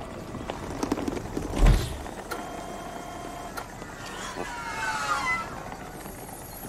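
Train-station platform sounds beside a high-speed train. A heavy thud comes about two seconds in, with a door-like mechanism, and is followed by a steady tone and then a mechanical whine that glides up and down in pitch.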